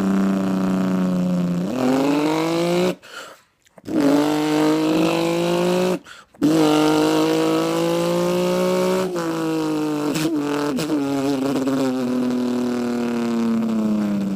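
A man imitating a V12 engine with his mouth: three long held engine-like tones broken by two short pauses for breath, the pitch gliding up and down like an engine revving and shifting gears, dropping away at the end.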